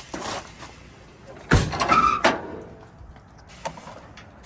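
A sudden loud metal clunk about a second and a half in, followed by a short rattle and scrape of under a second, from the old dump truck.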